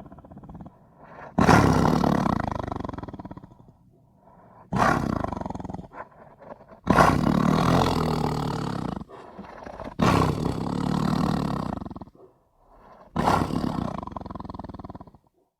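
Tiger roaring five times in a row, each roar starting abruptly and trailing off over a second or two, with short gaps between.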